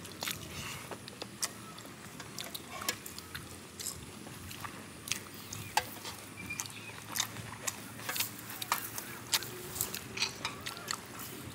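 A person eating rice and curry by hand, chewing with many irregular sharp wet clicks and smacks of the mouth.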